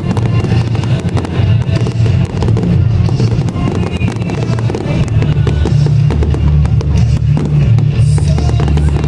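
Fireworks bursting and crackling in quick succession over loud music with a heavy bass line.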